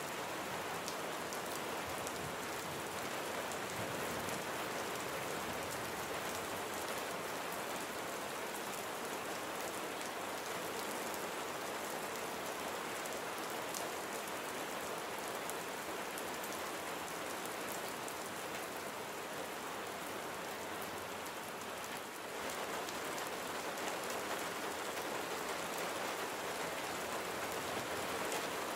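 Steady, heavy rain falling in an even hiss of countless drops. The level dips briefly about three-quarters of the way through, then picks up again.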